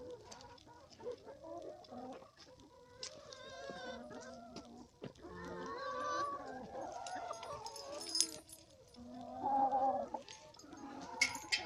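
Domestic chickens clucking, a series of short pitched calls that come again and again, with a louder call about ten seconds in.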